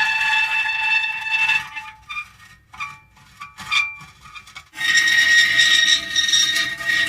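Metal creaking: a long, high-pitched squeal that stops about a second and a half in, a few short squeaks, then another long squeal starting near five seconds in.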